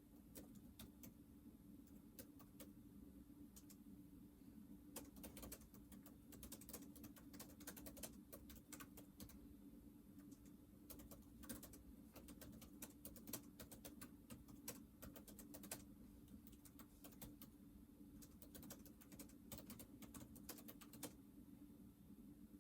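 Near silence: a faint steady hum with scattered small ticks and clicks throughout.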